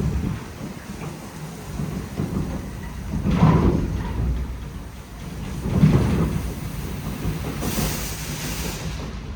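WashTec SoftCare² Pro gantry car wash applying active foam to a car: a steady low rush of spray on the bodywork that swells about every two and a half seconds, with a brief high hiss near the end.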